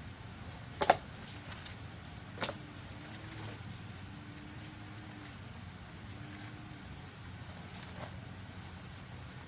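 Two sharp knocks about a second and a half apart, the first one doubled, over a steady low rumble, with a fainter knock near the end.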